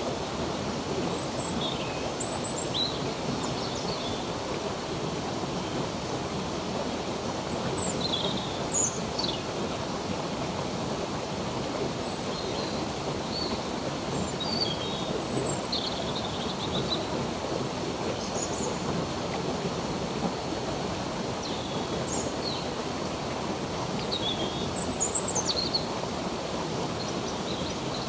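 Steady rush of flowing stream water, with small birds giving short, high chirps here and there over it.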